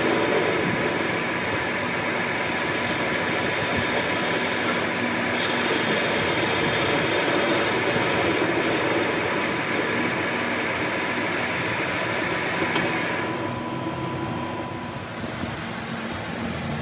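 Metal lathe running steadily while cutting the motorcycle wheel hub, a hissing, squealing metal-cutting noise over the machine's hum. The cutting noise fades about 13 seconds in, leaving the machine running more quietly.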